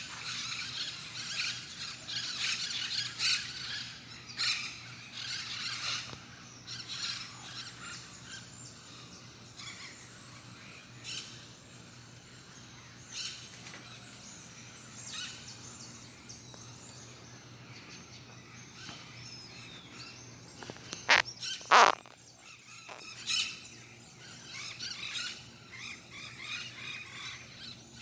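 Parrots calling and chirping: many overlapping calls for the first several seconds, then scattered single calls. Two loud, harsh calls close together about three quarters of the way through.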